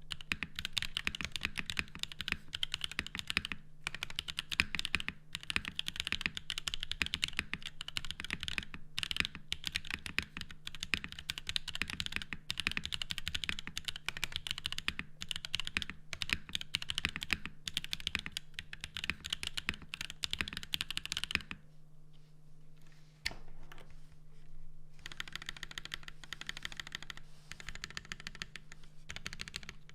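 Continuous typing on a custom mechanical keyboard with lubed Zykos tactile switches, an FR4 plate and Novelkeys BOW keycaps. The keystrokes are dense and fast, stop for about three seconds past the two-thirds mark, then resume a little softer. A steady low hum runs underneath.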